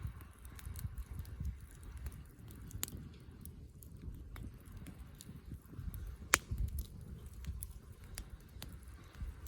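Wood campfire crackling: irregular sharp snaps and pops, with one louder pop about six seconds in, over a low rumble.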